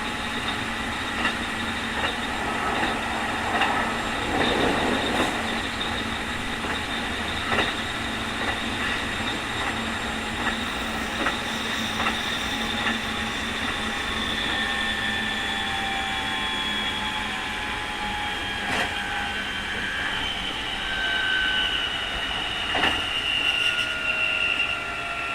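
Keikyu 2000 series electric train (Mitsubishi field-chopper control) running, heard from inside the car. Its traction drive gives off the high whining "jet sound" that marks this car as an odd-sounding one, over steady running noise with rail-joint clicks every second or two. From about halfway through, several whining tones fall slowly in pitch as the speed drops.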